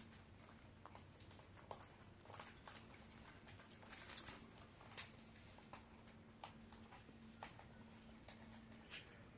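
Near silence with faint, irregular small clicks and taps, about a dozen scattered through, over a faint steady low hum.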